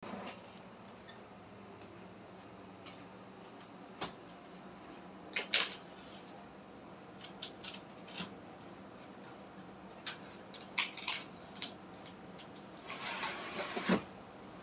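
Packaging being handled while a refrigerator is unboxed: scattered clicks and knocks and short rustles, with a longer crinkling rustle about 13 seconds in.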